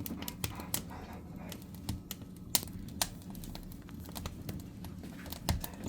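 Firewood burning in a fireplace, crackling with irregular sharp pops and snaps.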